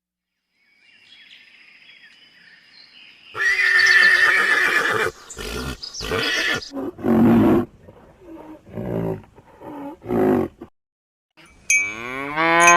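Horse neighing: one long whinny about three seconds in, then a string of shorter neighs and snorts. Near the end a cow begins a long moo.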